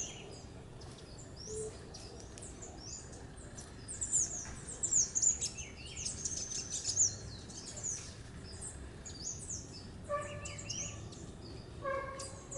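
Small birds chirping in quick, high-pitched notes, busiest in the middle. Near the end, twice, comes a lower call with several evenly spaced overtones.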